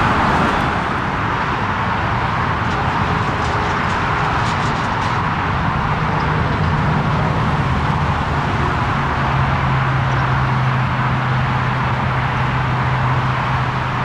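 Steady jet engine noise from a Lufthansa Airbus A340-300's four CFM56 turbofans, with a low steady hum joining about six seconds in.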